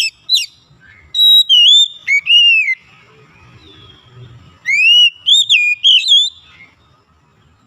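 Oriental magpie-robin (kacer) singing loud, clear whistled phrases of sliding notes. Two bursts of song are separated by a pause of about two seconds.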